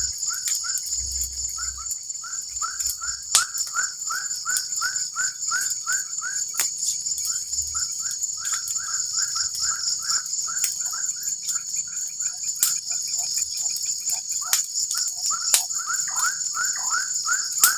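Steady high-pitched forest insect chorus of crickets or cicadas, with a short chirping call repeated about two or three times a second and a few sharp clicks.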